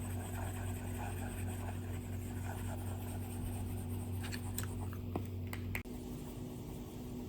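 Stylus drawing on an iPad screen: soft scratchy strokes, then a handful of sharp taps of the tip on the glass about four to six seconds in. A low steady hum underneath stops suddenly about six seconds in.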